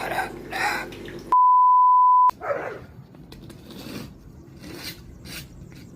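A censor bleep: one steady, high beep lasting about a second, starting about one and a half seconds in, with the audio under it blanked out.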